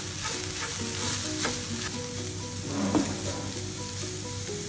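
Chopped onions and spices sizzling in oil in a nonstick frying pan, stirred and scraped around with a wooden spatula.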